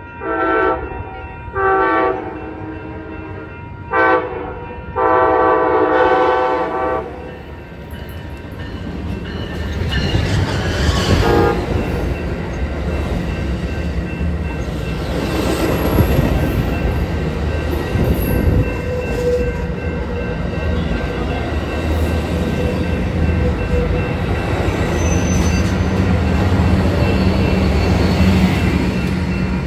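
Locomotive horn sounding the grade-crossing signal: two long blasts, a short one and a long one. The train then passes close by, engine and wheels on the rails making a loud, steady rumble that lasts to the end.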